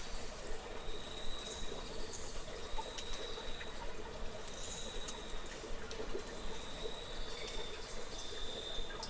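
Cave nature ambience: a high, thin, steady insect trill that comes and goes over a faint crackling background, with scattered light clicks.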